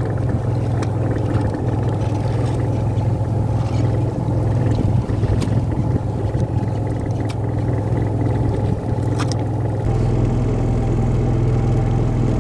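Fishing boat's engine running steadily, with a deeper rumble setting in about ten seconds in.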